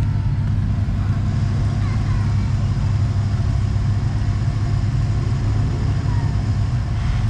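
Four-wheel-drive truck engine running steadily at low revs, a constant low drone with no revving.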